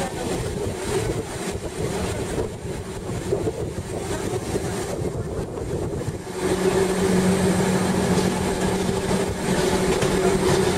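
Gornergrat rack-railway train running downhill, heard from inside the carriage: a steady rolling rumble with a hum that grows louder about six seconds in.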